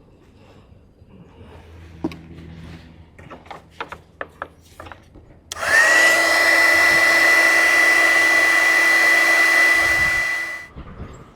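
A few light clicks and taps of handling, then an electric heat gun switched on about halfway through: its fan motor whine rises quickly to a steady high pitch over a loud rush of air, runs for about five seconds, and stops.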